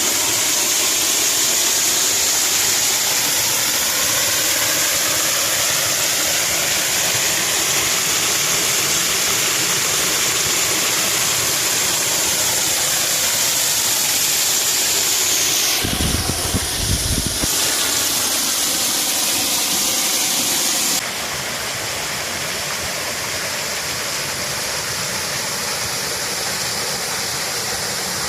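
Waterfall rushing: a steady, loud wash of falling water. A brief low rumble comes about 16 seconds in, and the sound drops slightly in level a few seconds later.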